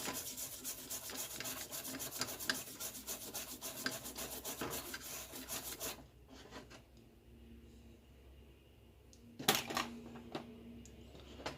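Rapid rubbing strokes of cleaning the freshly soldered joints on a TV circuit board with cleaner, stopping about six seconds in. A sharp knock follows a few seconds later.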